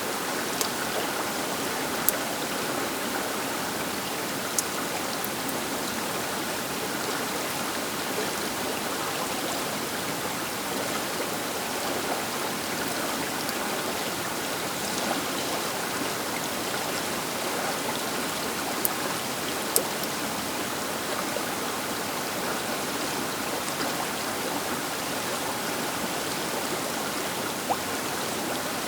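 The Río Baker flowing, a steady rushing of river water, with a few sharp clicks of splashes scattered through it.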